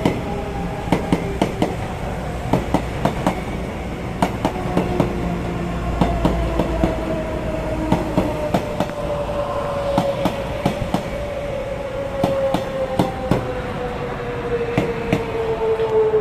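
A train running past, its wheels clacking sharply and irregularly over the rail joints, with a tone that falls slowly in pitch through the second half.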